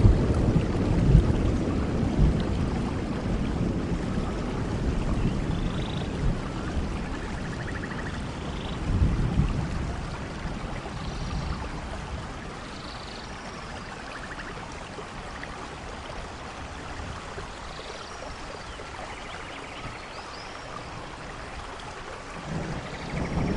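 Steady rainfall in a rainforest with thunder rumbling low at the start and again about nine seconds in, then dying away so the rain grows quieter. A few faint animal calls chirp and trill over the rain.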